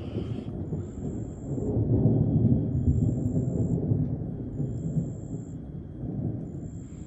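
Rolling thunder from a supercell thunderstorm: a deep rumble that swells about a second and a half in and fades away by about six seconds.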